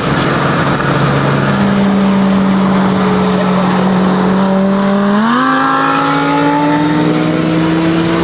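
Car engine running under load, its note stepping up in pitch about a second and a half in, then climbing again about five seconds in as the car accelerates.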